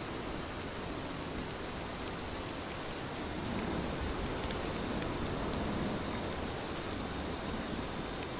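Heavy rain falling steadily: a dense, even hiss with scattered individual drop ticks, swelling slightly in the middle.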